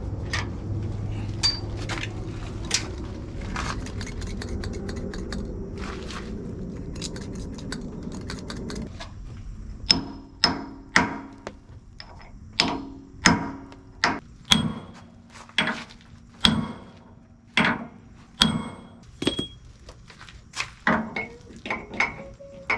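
Heavy hammer blows on steel, striking a tool on the backhoe swing cylinder's gland to loosen it. About nine seconds in a steady low rumble stops, and from then on come about twenty ringing metal-on-metal strikes, roughly one or two a second.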